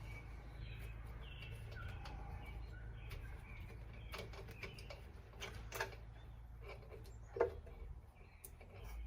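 Occasional faint clinks and knocks of hand tools and bolts over a steady low hum, with a few faint bird chirps in the first half.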